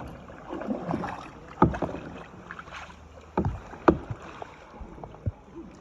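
Kayak paddling: the paddle dips and strokes the water, with about four sudden sharp strokes standing out against a low wash of water.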